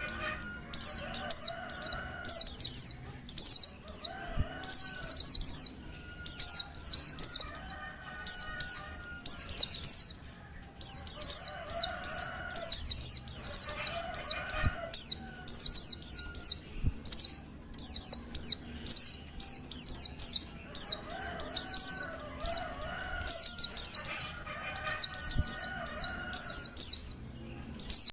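Female white-eye (pleci) calling: rapid bursts of high, thin chirps, several notes at a time, repeated over and over. This is the female's call in breeding condition, used to stir male white-eyes into song.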